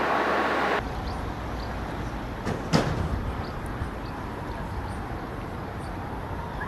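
Steady outdoor background noise that changes abruptly about a second in to a quieter, even hum, with one sharp knock just under three seconds in.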